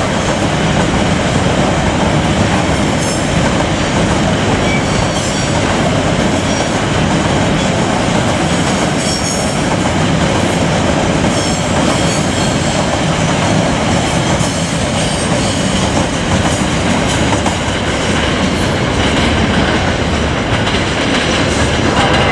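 Freight train of bogie open box wagons rolling past, with a steady, loud noise of steel wheels running on the rails.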